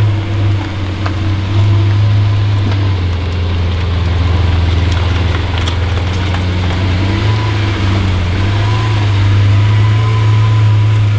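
Lamborghini Aventador SV Roadster's V12 engine running near idle as the car creeps slowly along, a steady low drone that rises a little in pitch a few times.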